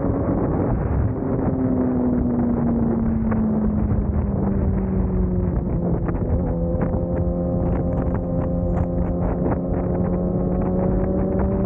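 Motorcycle engine running under wind rush on the microphone. Its pitch drops over the first few seconds as the revs fall, then holds steady and rises slightly near the end. A quick run of light ticks comes through in the second half.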